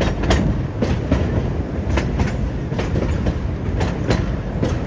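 Narrow-gauge passenger train cars rolling along the track: a steady rumble of steel wheels on rail, with sharp clacks at uneven intervals as the wheels cross rail joints.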